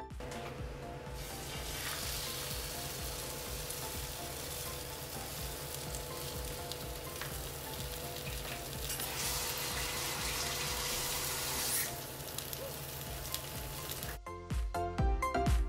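French toast sizzling steadily in hot oil in a grill pan. Music plays faintly underneath and comes up clearly near the end.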